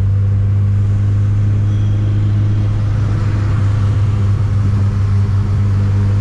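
Turbocharged Chevette engine running under way at steady revs, a constant low drone with a little more hiss for a couple of seconds midway.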